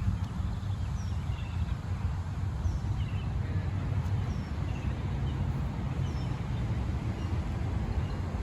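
Outdoor ambience: a steady low rumble, with a small bird chirping repeatedly, about one short falling chirp every second and a half.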